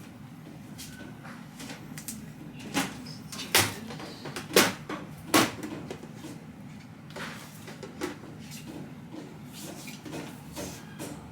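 Hard plastic storage bins being handled on a store shelf: four sharp knocks come between about three and five and a half seconds in, followed by lighter clatter, over a steady low background hum.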